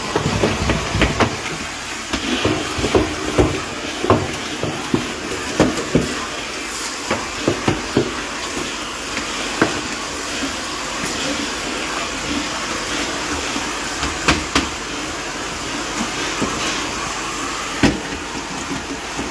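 Vacuum cleaner running steadily as it is worked over a dusty wall, with frequent sharp knocks and clicks, more of them in the first half.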